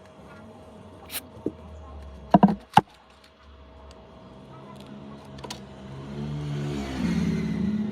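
A few sharp clicks and taps in the first three seconds, then a motor vehicle's engine growing louder as it approaches near the end.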